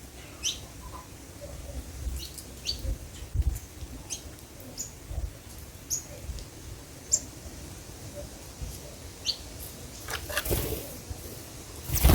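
Small birds giving short, high chirps, one every half second to a second, over low thumps. There is a louder rustling burst near the end.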